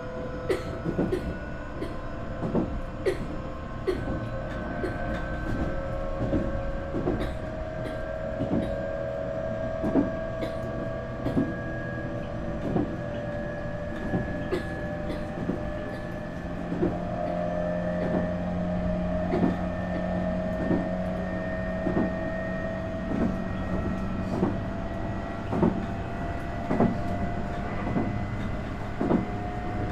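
Nankai 8300 series IGBT car running, its VVVF inverter and totally enclosed induction traction motors giving a steady whine that slowly rises in pitch. The wheels click over rail joints at fairly regular intervals.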